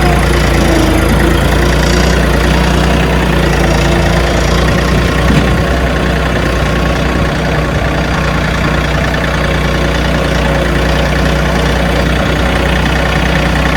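John Deere tractor engine running steadily as the tractor drives along.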